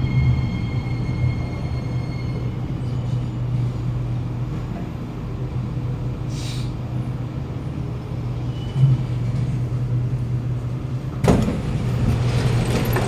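Interior of a Kawasaki Nippon Sharyo C751B train carriage standing at a station platform: a steady low hum of the train's onboard equipment, with faint high tones dying away in the first few seconds. About eleven seconds in, a sudden louder rush of noise starts and carries on.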